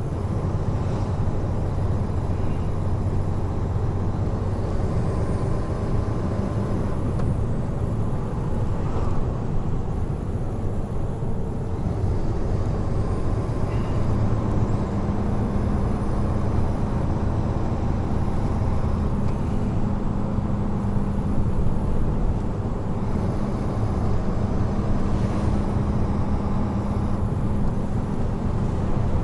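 Heavy truck driving on an expressway: a steady engine drone under tyre and road noise. The engine's hum shifts to a higher note about halfway through.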